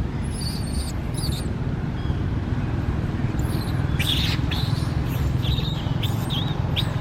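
Baby monkey giving short, high-pitched squeaks, some falling in pitch: a few near the start and a quicker run of them from about halfway, over a steady low rumble.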